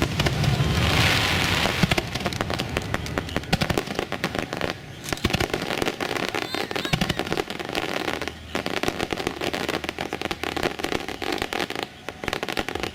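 Aerial fireworks going off: a heavy rumbling burst in the first two seconds, then dense rapid crackling from many small bursts.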